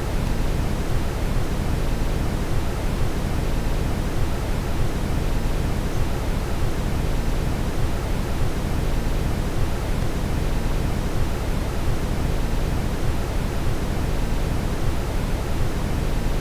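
Steady brown noise: an even, unchanging deep rushing hiss, heaviest in the bass and thinning toward the treble.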